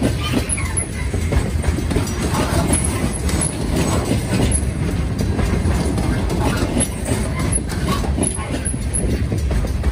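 Loaded DODX military flatcars rolling past on a freight train: a steady rumble of steel wheels on the rails.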